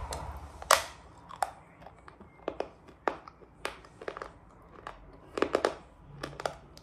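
A person biting and chewing a piece of crunchy grey shale: a loud crunch a little under a second in, then smaller sharp crunches about twice a second as it is chewed.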